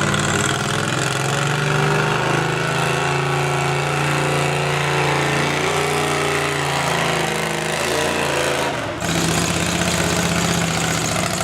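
Modified pulling lawn tractor's engine running under load down the track, exhaust through short open header pipes and a mild cam. The pitch wavers a little, dips briefly near the end, then carries on steadier.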